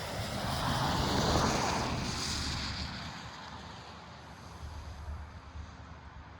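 Budd RDC-3 diesel railcar rolling past at low speed, its engine rumble and wheel noise loudest about a second and a half in, then fading as it draws away.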